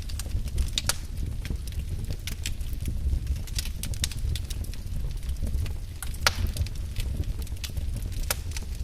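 Wood fire burning in a fireplace: a steady low rumble of flames with irregular sharp crackles and pops of burning logs, a few louder snaps among them.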